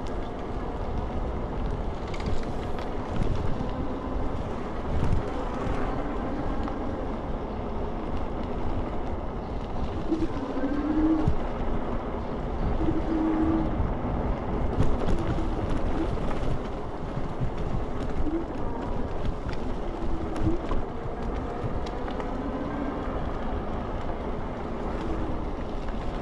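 Wind buffeting the microphone over the rumble of tyres on the road while riding an iKingi S6 Pro electric scooter.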